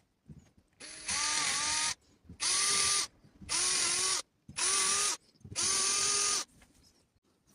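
A small power tool's motor runs in five short bursts of about a second each. Each burst carries a steady whine and starts and stops abruptly.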